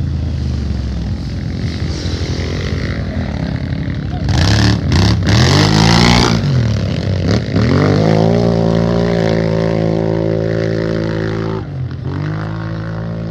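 Off-road race engine running hard. About four seconds in it revs up loudly, its pitch swooping up and down, then holds a steady high pitch. Near the end the revs drop sharply and pick back up.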